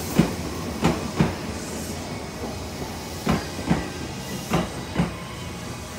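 Commuter electric train rolling past at moderate speed. Its wheels click over rail joints in pairs as each set of bogies crosses, over a steady rolling rumble.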